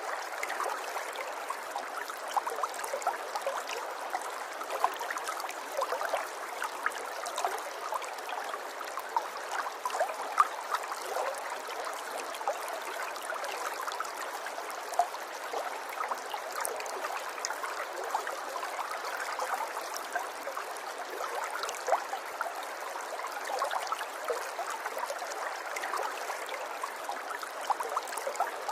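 A shallow river or stream flowing steadily, its water babbling and splashing with many small trickling drops.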